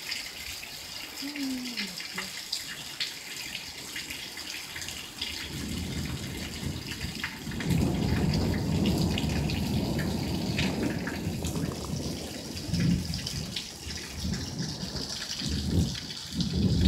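Steady rain hiss with many small drop ticks. From about five seconds in, a low, uneven rumble joins and makes it louder.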